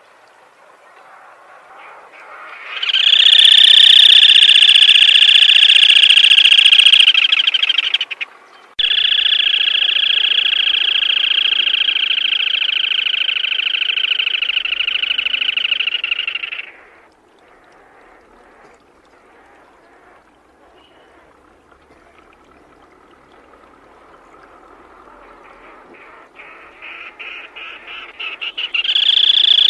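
Black-tailed crake giving long rattling trills. The first lasts about five seconds; after a short break a second runs about eight seconds. Near the end, separate pulses speed up into another trill.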